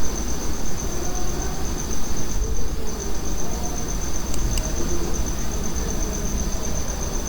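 Cricket trilling steadily, a continuous high, finely pulsing chirp that breaks off briefly about two and a half seconds in, over a low background rumble.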